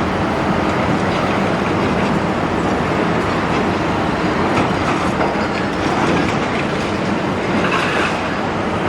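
Large demolition excavator at work: diesel engine running under load with continuous clanking and grinding of metal and debris, and a brief squeal near the end.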